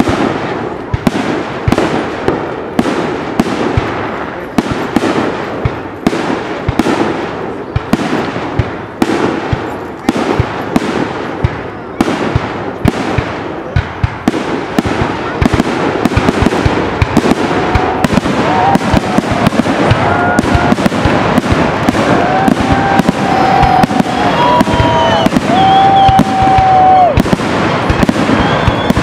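Aerial firework shells bursting in quick succession, about two sharp reports a second, building from about halfway into a dense, unbroken crackle of bursts typical of a display's finale. A few high held tones sound over the crackle near the end.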